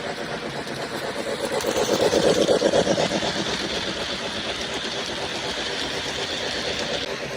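Lionel LionChief Plus O gauge 4-6-4 Hudson model steam locomotive running on its track: a steady motor and wheel hum with rapid even ticking from the rails, growing louder to a peak about two to three seconds in, then holding steady.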